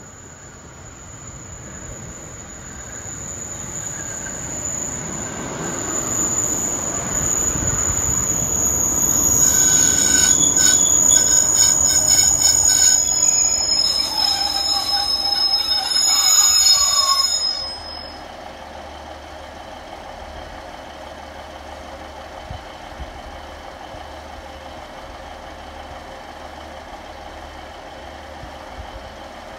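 Two-car diesel multiple unit running into the station, growing louder as it nears. About 9 to 17 seconds in its brakes and wheels squeal with high steady tones. It stops about 17 seconds in, and the engine is left idling with a steady lower hum.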